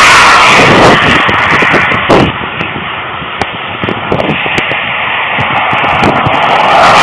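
Road traffic passing close by: a loud, even rush of vehicle noise that fades about two seconds in and builds again near the end, with scattered small clicks in the quieter middle.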